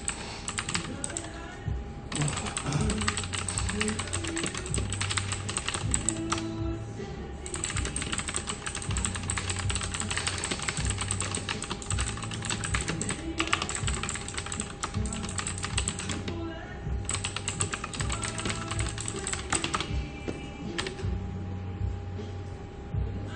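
Rapid typing on a computer keyboard, a dense clatter of keystrokes in runs of a few seconds broken by short pauses, over a steady low background hum.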